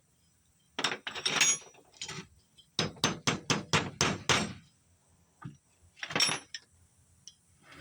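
Sharp metal-on-metal hammer taps, a few at first, then a quick run of about seven, then one more, as a snap ring is driven into place in a Holset HX35W turbocharger's housing.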